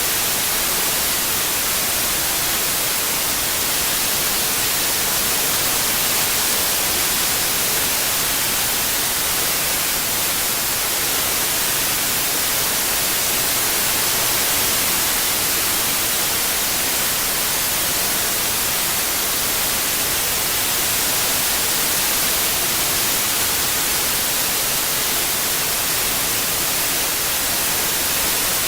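Steady white noise, an even hiss strongest in the high end, with no change over the whole stretch.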